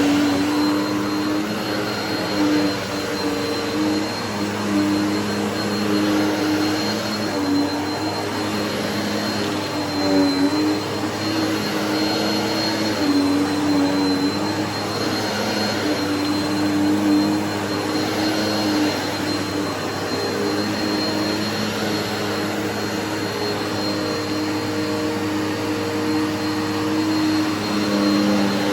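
Bissell vacuum cleaner running steadily: a motor whine with a thin high tone over a lower hum that wavers in pitch.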